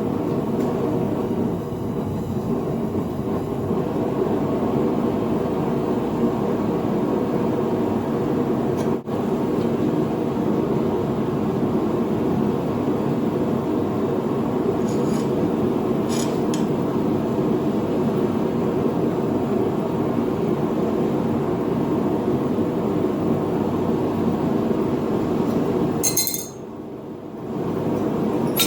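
Forge running with a steady roar while a bar is worked, with a few light metal clinks about halfway through and a sharper clink near the end, after which the roar drops away.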